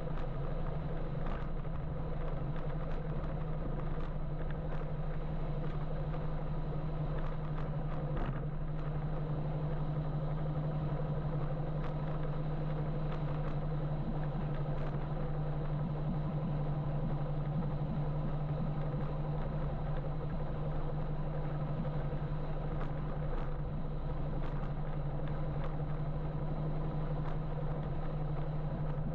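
Steady riding noise from an electric motorbike in city traffic: wind and road noise with a constant low hum, and one brief click about eight seconds in.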